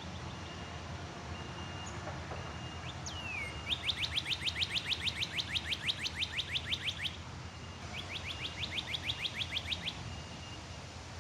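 A songbird singing two long rapid trills of repeated high notes, about eight a second, starting about a third of the way in and again just after the middle. Short thin whistled notes and a falling slurred call come between them.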